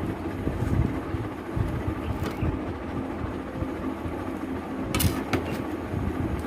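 Close-miked eating sounds: irregular low chewing and mouth noises from a meal of rice and chicken curry, with a sharp click about five seconds in.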